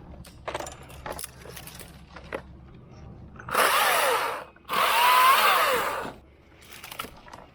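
Stihl MSA 220 TC battery top-handle chainsaw running in two short bursts about halfway through, its whine gliding in pitch, after a few faint clicks and knocks. The stop between bursts fits the saw's power button timing out, which has to be pressed again.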